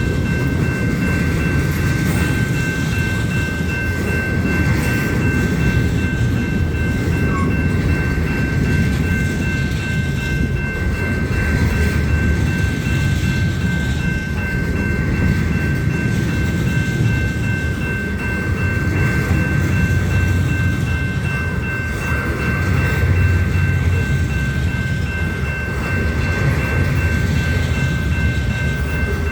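Union Pacific freight train's cars rolling past steadily, a continuous heavy rumble with a thin steady high tone held over it.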